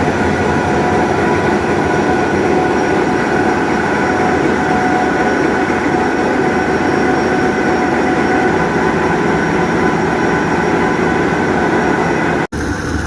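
Deutz SBA8M528 eight-cylinder marine diesel main engine running steadily in the engine room, with a dense clatter under steady whining tones. The sound cuts out briefly near the end and comes back slightly changed.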